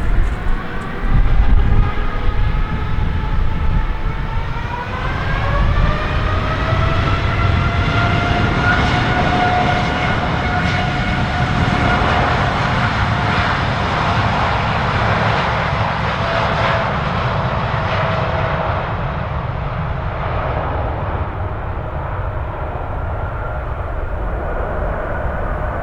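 Boeing 787-8 airliner's jet engines spooling up to takeoff power, a whine rising in pitch over a couple of seconds, then running at full thrust during the takeoff roll. The whine fades and the high end drops away toward the end as the airliner moves off. A low rumble of wind noise runs underneath.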